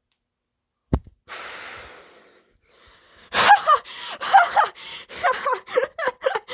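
A click about a second in and a gasping breath, then from about three seconds in a person laughing hard in short gasping bursts.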